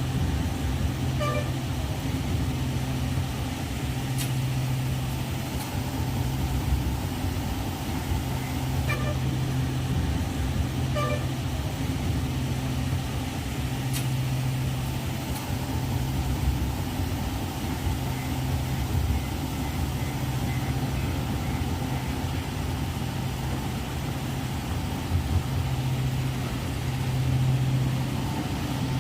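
Heavy machine's diesel engine running steadily at a constant speed, a low even hum with no revving.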